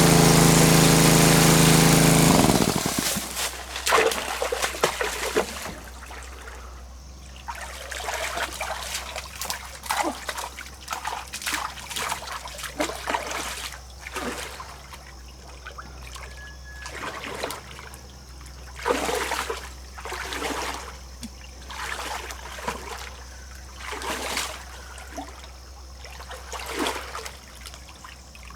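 A small engine runs steadily and stops abruptly about two and a half seconds in. Then water splashes and sloshes in irregular bursts, one every second or two.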